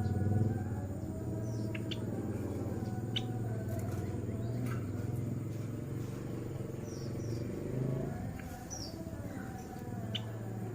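Java sparrow giving short, sharp chip calls, one every second or two, over a steady low hum.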